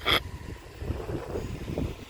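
Wind rumbling on the microphone, with one brief sharp sound just after the start.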